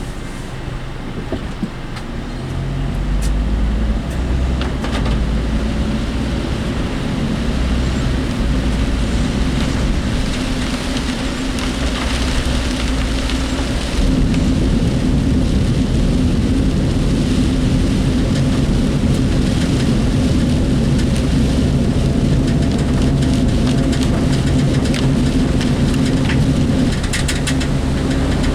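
Work vehicle's engine and road noise heard from inside the cabin while driving, with the body rattling. The engine note steps up about three seconds in and again about halfway through as the vehicle speeds up, and there is a brief cluster of rattles near the end.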